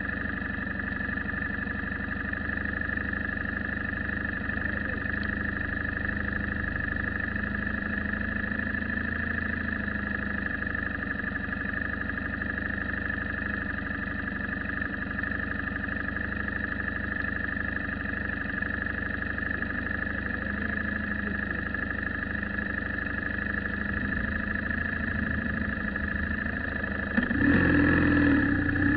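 Motor vehicle engine running steadily with a constant drone, then a louder rising rumble about two seconds before the end, as if revving or speeding up.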